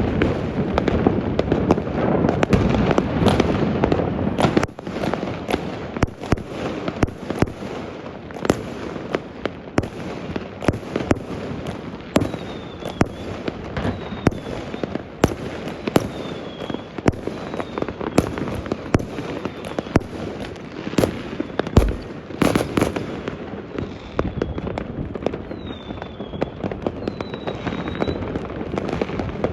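New Year's fireworks going off all over a city: a dense, continuous crackle and rumble of many distant bangs, heaviest in the first few seconds, with many sharper single bangs throughout and a few short falling whistles in the second half.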